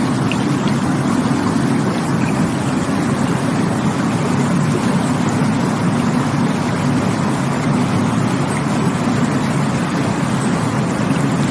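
Steady rushing water of a stream or waterfall, a constant deep roar.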